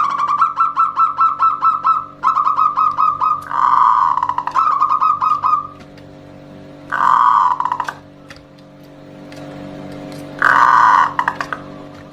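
Zebra dove (perkutut) cooing: fast trains of short staccato notes, broken by a few longer, louder coos, with a steady low hum underneath.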